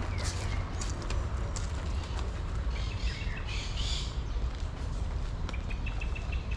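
Small birds chirping, with bursts of calls a few seconds in and a rapid run of short notes near the end, over a steady low background rumble.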